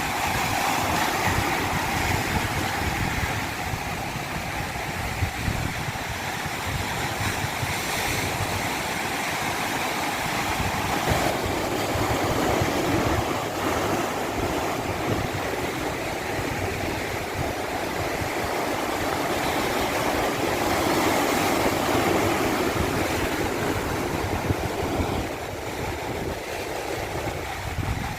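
Flowing stream running over a small cascade: a steady rushing of water that grows a little deeper and fuller about halfway through.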